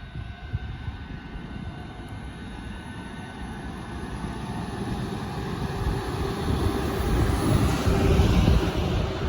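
A train approaching. Its rumble and hiss grow steadily louder, with a faint steady hum coming in about halfway.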